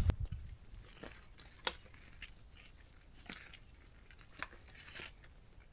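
Faint rustling and crinkling, as of material being handled, with a few light clicks spread through.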